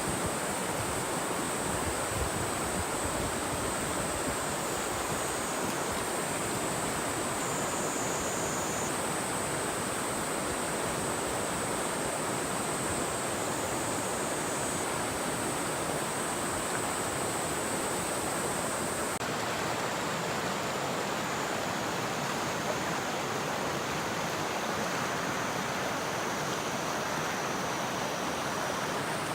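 Mountain stream rushing over rocks, a steady, even rush of water. Thin, high, steady insect trilling sits above it.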